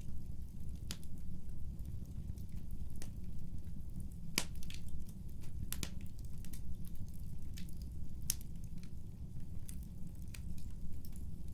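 Wood fire burning in a fireplace: a steady low rumble with irregular sharp crackles and pops. The two loudest pops come about four and a half and six seconds in.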